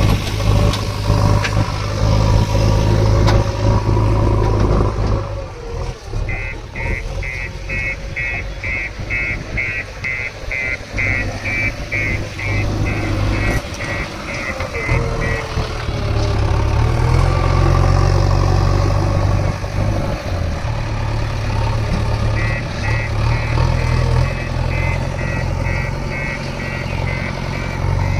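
Heavy diesel engines of a JCB 3DX backhoe loader and tractors running and working under load. A rapid electronic beeping, about two and a half beeps a second, sounds for several seconds starting about six seconds in, stops, and starts again near the end.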